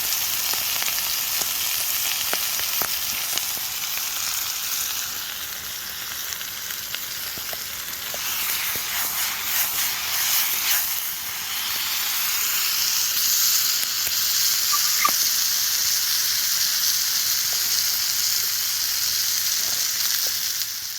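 Bacon sizzling over a campfire: a steady frying hiss with scattered small pops and crackles. It eases off a little for a couple of seconds, then picks up again.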